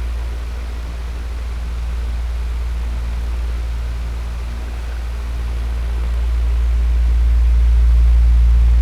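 Electric fan running: a steady airy whoosh over a deep low hum, its loudness slowly swelling and easing over a few seconds.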